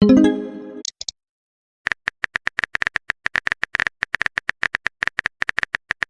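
Electronic sound effects: a short pitched burst at the start, then a fast, uneven run of short clicking beeps, about seven a second.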